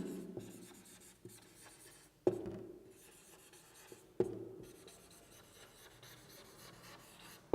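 Writing strokes, a faint scratching of a pen or marker tip across the writing surface, with two sharper taps about two and four seconds in.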